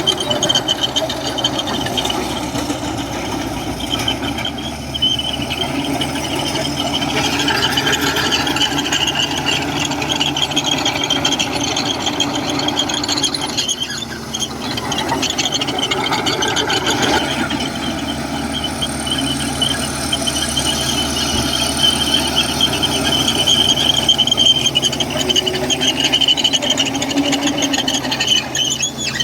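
Komatsu crawler bulldozer working: its diesel engine runs steadily under load while the steel tracks give a continuous high squeal and clatter.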